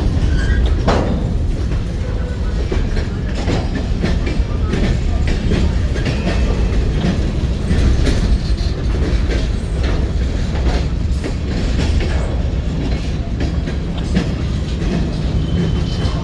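Train cars rolling past with a steady deep rumble and the repeated clicking of wheels over rail joints.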